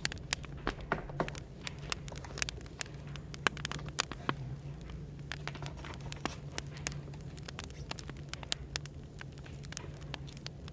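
Burning firewood crackling with irregular sharp pops, several a second, over a steady low background hum of café white noise.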